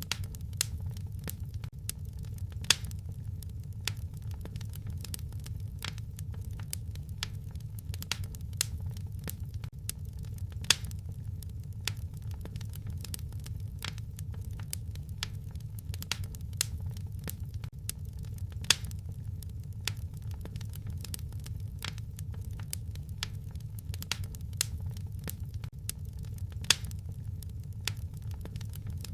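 Wood fire crackling in a fireplace: a steady low rumble with irregular small crackles and a few sharper pops.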